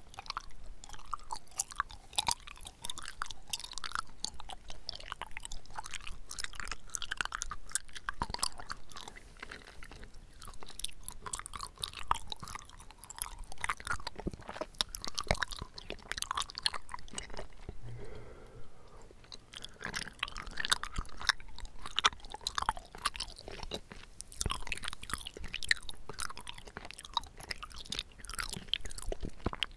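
Close-up chewing of bubble tea's chewy tapioca pearls: a steady run of wet mouth clicks and smacks, easing off in a short lull a little past the middle.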